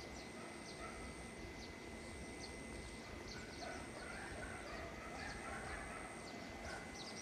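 Faint forest ambience: scattered short bird chirps and calls over a repeating high insect trill that comes in dashes about a second long.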